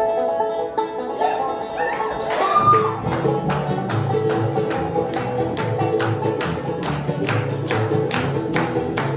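Live bluegrass band starting a song: plucked strings pick the opening notes, then about two and a half seconds in the whole band comes in on a steady, driving beat.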